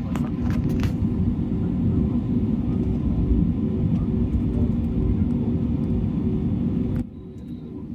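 Airbus A320neo engine and airflow rumble heard inside the cabin: a loud, steady low roar with a steady hum over it and a few light rattles in the first second. It drops abruptly to a much quieter level about seven seconds in.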